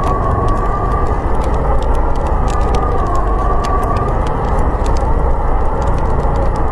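Snowstorm wind howling: a steady low rush with a wavering whistle, over many small pops and crackles of a wood fire.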